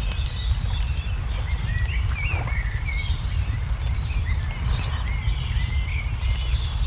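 Wood fire crackling with scattered sharp pops, and small birds chirping in short swooping notes, over a steady low rumble.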